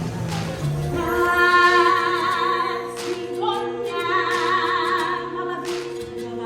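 A choir sings long held notes with a wide vibrato over sustained music, in two long phrases.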